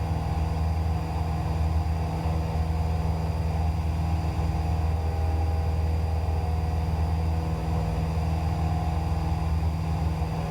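Cessna 172's piston engine and propeller running steadily at climb power, a constant drone heard inside the cockpit.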